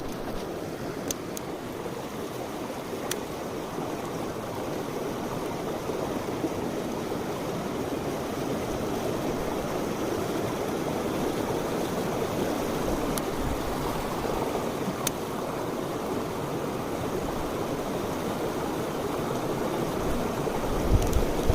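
Mountain stream water rushing and splashing steadily over rocks, with a few faint clicks and a low rumbling bump near the end.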